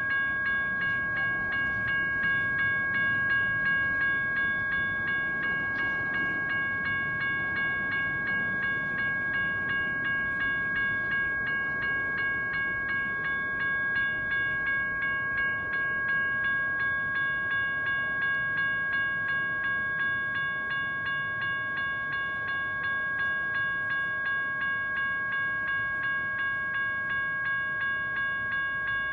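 Grade-crossing electronic bell (General Signals Type 1) ringing steadily in quick, even repeated strikes, with a low train rumble underneath.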